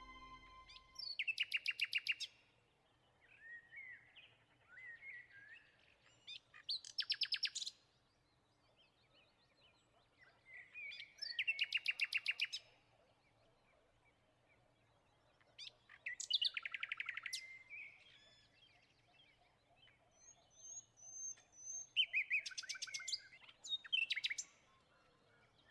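Parrots calling: loud bursts of rapid chattering trills roughly every five seconds, with softer chirps and short whistles between them.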